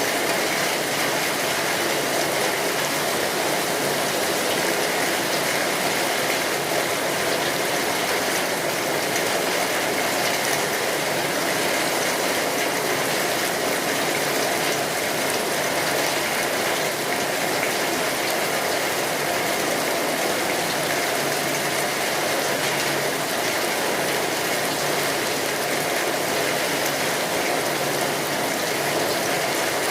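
Steady rainfall, a dense even patter of drops.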